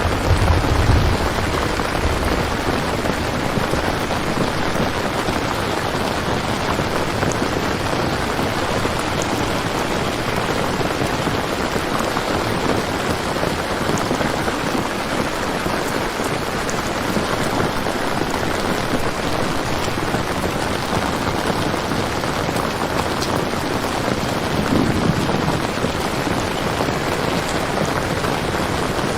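Steady rain falling on a surface, an even unbroken hiss, with two brief low rumbles, one about a second in and another near the end.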